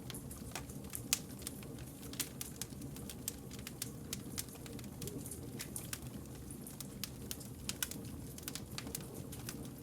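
Wood campfire crackling: irregular sharp pops and snaps, several a second, over a steady low rumble of the burning logs.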